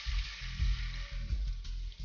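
Firm tofu slices sizzling as they fry in hot olive oil in a pan, under background music with a pulsing bass.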